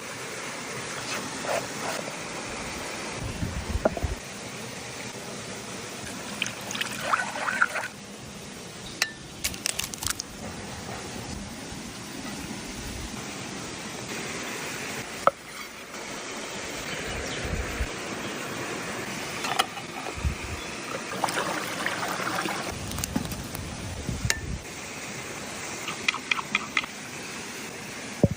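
Outdoor campfire cooking sounds: a steady hiss with scattered clinks and clicks and a few dull low thumps.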